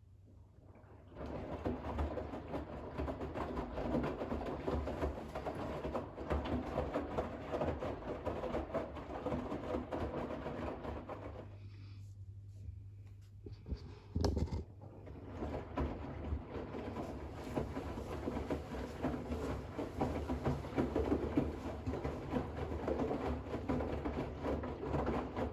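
Bosch WAX32GH1 front-loading washing machine's drum tumbling wet towels during the final rinse, with water sloshing and the laundry falling. The drum turns for about ten seconds, stops for about three seconds with one thump, then turns again.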